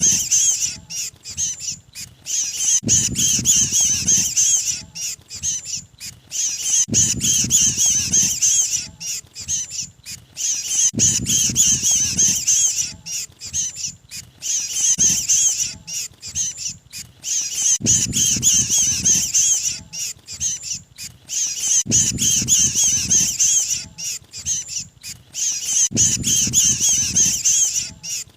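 Mantenan birds' distress calls, a trapped-bird lure recording: rapid high-pitched chattering and squawking, running without a break, with a low rumble coming back about every four seconds as the loop repeats.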